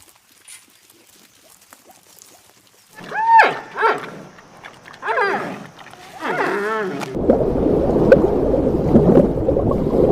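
A few seconds of near quiet, then four or five animal calls, each rising and falling in pitch. About seven seconds in, a loud, dense, rough noise with scattered clicks sets in and keeps going.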